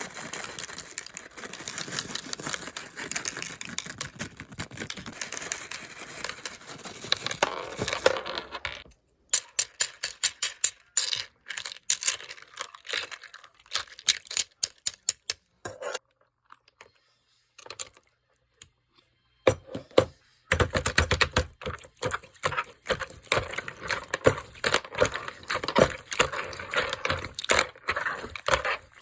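Crunchy slime being squeezed and kneaded by hand, giving dense crackling pops and clicks. The crackling thins to scattered pops partway through, stops for a few seconds, then comes back dense near the end.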